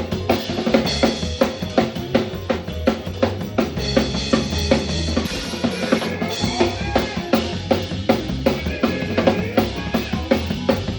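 Live band playing an instrumental passage: a drum kit keeps a steady, busy beat of kick and snare over bass and other sustained instruments.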